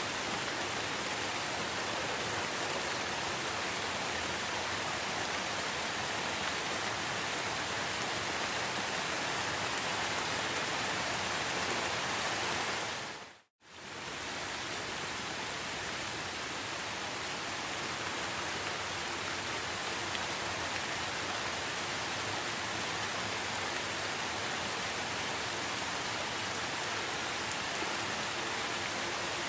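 Steady rainforest rain, a dense even hiss. About halfway through it fades out to silence for a moment, then fades back in.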